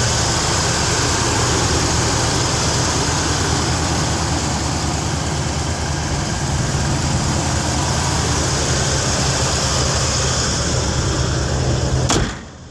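Ford 302 small-block V8 idling steadily in an open engine bay. A sharp click comes near the end, after which the sound falls quieter.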